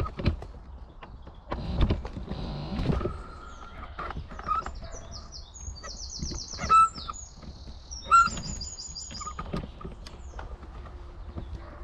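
A songbird singing two quick runs of rapid, repeated high notes, over irregular knocks and rattles of a scooter jolting along a rough path, with two sharp louder knocks in the middle.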